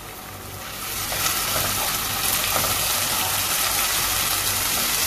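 Onions frying in hot oil with a steady sizzle that jumps louder about a second in, as wet ginger-garlic paste goes into the oil, and stays loud while a wooden spoon stirs it through.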